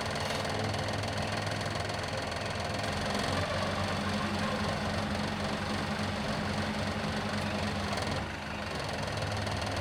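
Car engine running steadily with road noise while driving, a continuous hum that dips briefly about eight seconds in.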